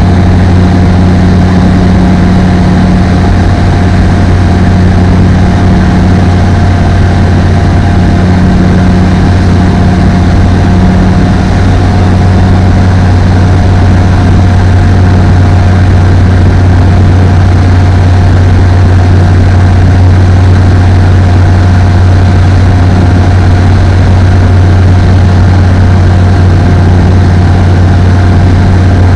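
Apollo Fox ultralight aircraft's engine and propeller running at a steady, even speed, a loud continuous drone with a low hum and a steady higher whine.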